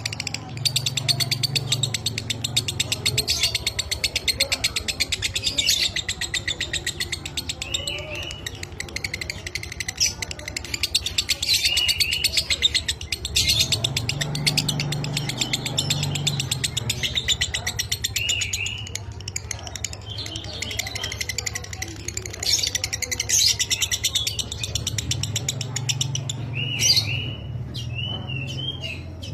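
Lovebird singing 'ngekek': long runs of a very rapid, dry chattering trill, broken by brief pauses and short wavy chirps.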